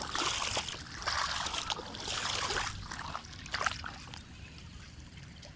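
Water splashing and trickling in irregular bursts, growing weaker after about four seconds.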